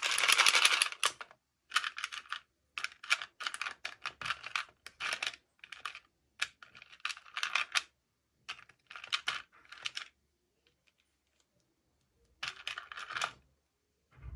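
Toy packaging being opened and handled: irregular bursts of crinkling and rustling. The longest and loudest comes at the start, a run of shorter ones follows, then there is a pause and one more burst near the end.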